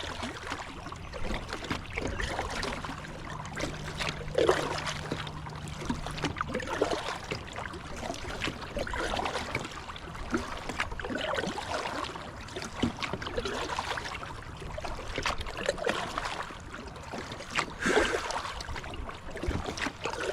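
Kayak paddle strokes splashing and dripping water, roughly one every two seconds, over the wash of river water around the boat.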